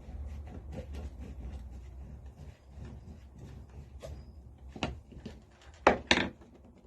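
Small metal clicks and knocks of hand tools and parts being handled while the cap is worked off a Lister D engine's ignition distributor, with a few sharper clicks near the end.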